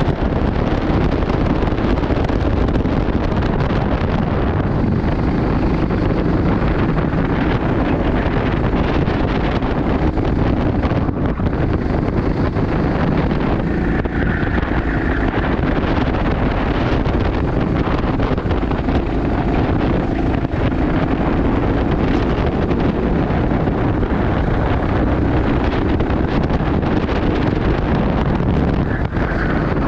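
Steady wind buffeting the microphone: a loud, even rumble with no clear rhythm.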